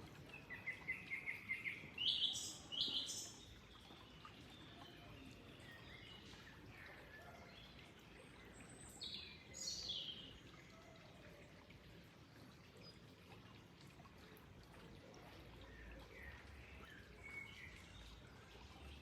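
Songbirds calling over a faint steady rush of flowing water: a quick run of about eight chirps at the start, then two pairs of loud, sharply falling calls, the second about seven seconds after the first, with fainter calls near the end.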